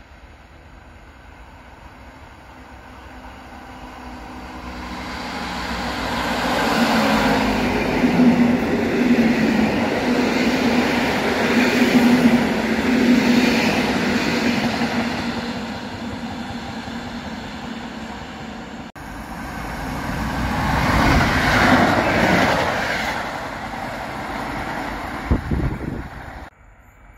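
Electric multiple-unit passenger train approaching and running past at speed, its wheel and rail noise building over several seconds to a loud rush with a steady low hum. The noise swells a second time before dying away, then cuts off suddenly near the end.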